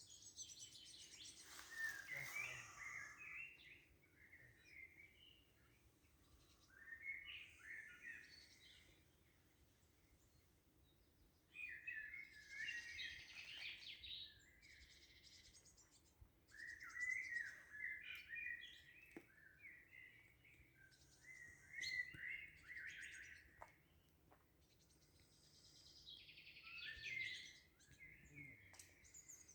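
Songbirds singing in a quiet forest: about six short, faint phrases of chirping song, spaced a few seconds apart, with quiet gaps between them.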